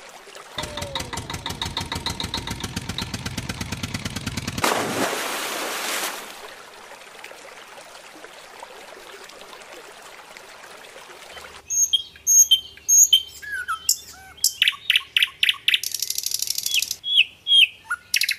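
A motor running with a rapid rhythmic pulse for about four seconds, then a short rush of splashing water and a quiet trickle of a stream. From about twelve seconds in, loud repeated bird chirps and quick trills take over and are the loudest sound.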